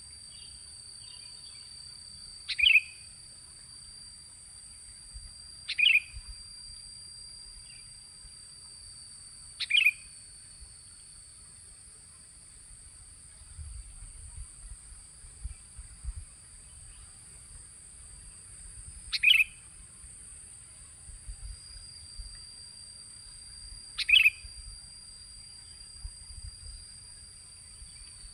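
Sooty-headed bulbul (kutilang) lure call: five short, sharp call notes, spaced a few seconds apart with a longer gap midway. A steady high insect drone runs underneath.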